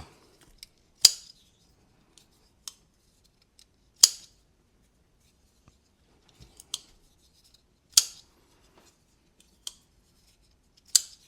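Giant Mouse Ace Jutland folding knife being flicked open and shut on freshly fitted thick pivot washers to check the action: four sharp metallic snaps about three to four seconds apart, with fainter clicks of the blade between them.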